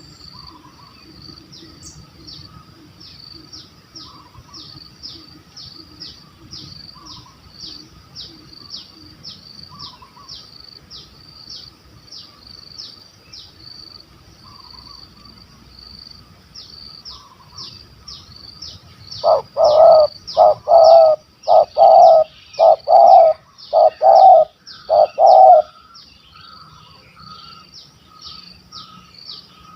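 Spotted dove (tekukur) cooing loudly and close, a run of about eight deep coos beginning about two-thirds of the way through and lasting some six seconds. Under it, a fast, even high-pitched chirping runs on, with fainter coos every few seconds.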